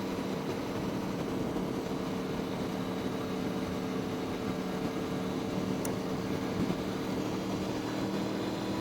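Motorcycle engine droning at a steady cruise with wind and road noise, heard from the rider's helmet; the pitch holds level throughout.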